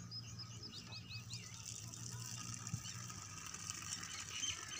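Small birds chirping and twittering in quick short calls over a steady low hum, with a single soft knock about halfway through.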